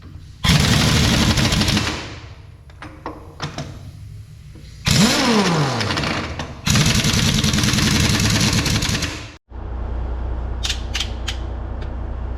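Impact wrench hammering in three bursts, tightening truck wheel lug nuts and studs; the second burst starts with a falling whine. After a sudden break near the end comes a steady low hum with a few clicks.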